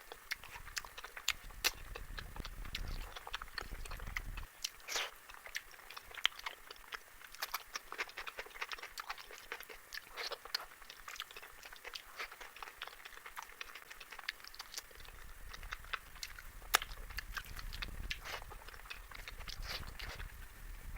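Close-miked eating of a spicy fish curry meal: steady chewing with many small, irregular crunches and wet mouth clicks, a few of them louder.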